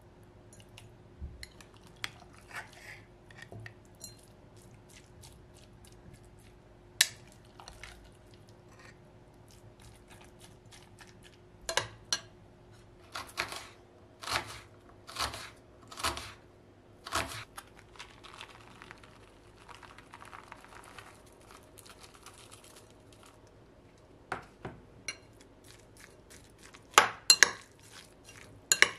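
Kitchen handling sounds: dishes and utensils clinking, knocking and being set down at irregular intervals, with a faint steady hum underneath.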